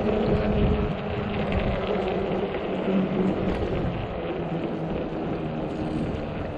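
Wind rushing over the microphone of a moving fat-tire e-bike, with a steady low hum from the bike running underneath.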